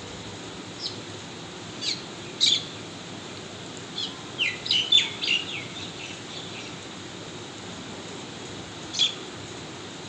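A bird chirping in short, sharp calls: a few single chirps in the first three seconds, a quick run of chirps around the middle, and one more near the end, over a steady background hiss.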